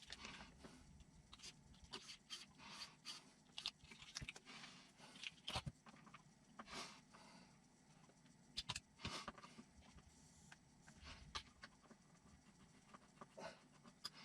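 Faint, irregular small clicks and taps of small parts and tools being handled while the steering servo and its linkage are fitted, with no steady motor sound.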